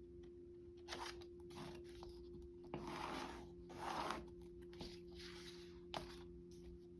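Quiet rustling and scraping of paper and craft tools being handled, with a few sharp little clicks, over a faint steady hum.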